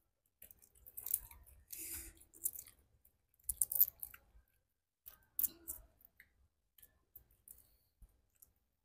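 Chewing of spicy boiled shrimp up close: short clusters of crisp crunching and clicking mouth sounds about once a second.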